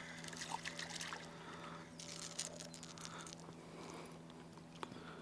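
Faint water trickling and lapping, with a few light clicks scattered through it.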